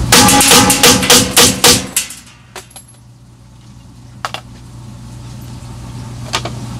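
Beretta Nano subcompact pistol fired rapidly, about four shots a second for nearly two seconds, still firing after being run over by a truck. Then come a few separate light clicks over a steady low hum.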